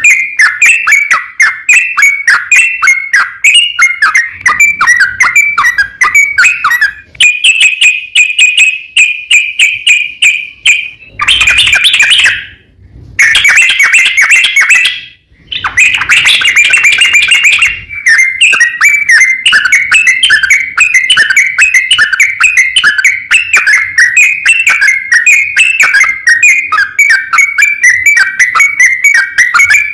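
Yellow-vented bulbul (trucukan) singing a fast, chattering song of rapidly repeated notes, loud and continuous. It has a steadier, higher phrase about a quarter of the way in and two brief breaks near the middle.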